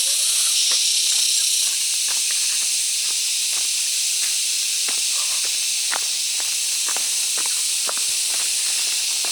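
A steady high-pitched hiss with scattered light clicks and taps through it.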